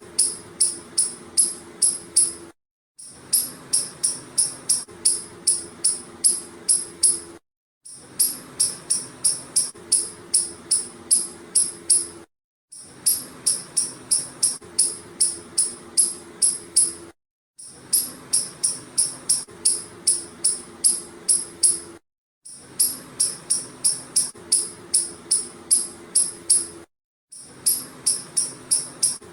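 Squirrel giving a rapid series of sharp, high-pitched chirps, about two or three a second, in runs of a few seconds broken by brief silent gaps.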